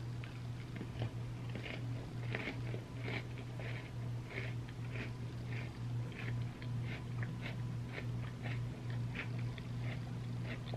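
Close-miked chewing of a crunchy chocolate sandwich cookie with ice cream, about two crunchy chews a second, over a steady low hum.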